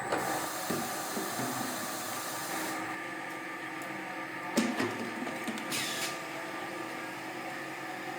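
Factory machinery running steadily with a hum and hiss, and a single sharp knock about four and a half seconds in.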